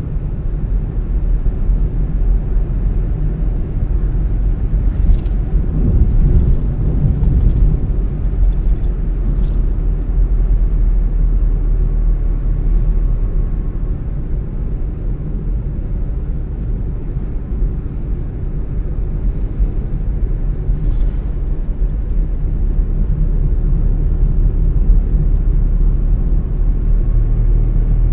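Car driving along a road: a steady low rumble of engine and tyres, with a few faint brief ticks scattered through it.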